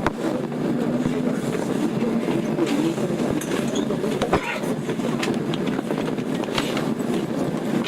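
Tokyo Metro 02 series Marunouchi Line subway train running, heard from inside the car: a steady rumble of wheels on rail with scattered sharp clicks from rail joints.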